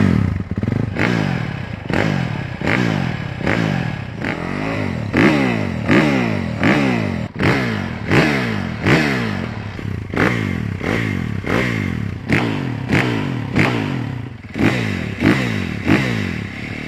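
Motocross dirt bike engine revved in quick repeated throttle blasts, about one and a half a second. Each blast jumps up sharply and its pitch falls away before the next.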